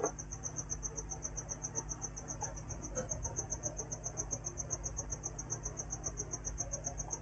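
Steady high-pitched insect chirping, about seven pulses a second, over a faint low hum.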